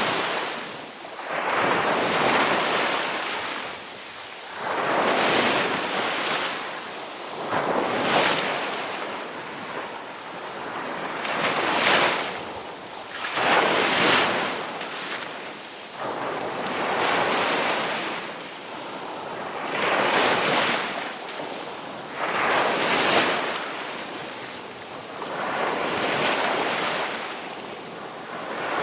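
Ocean waves breaking and washing in, a rushing surge every two to three seconds that swells and falls away.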